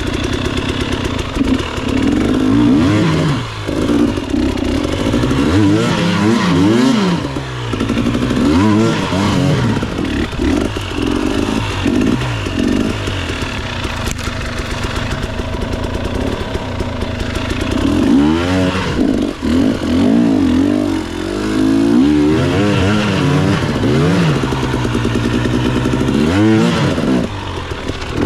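Motorcycle engine running under way, its pitch climbing and dropping again and again as it revs up and eases off.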